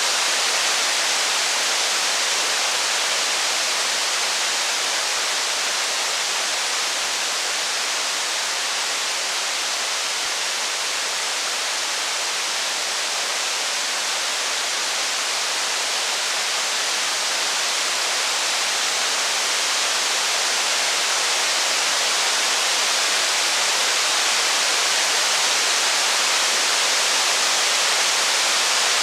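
Steady rain, an even hiss with no separate drops, crackles or thunder standing out.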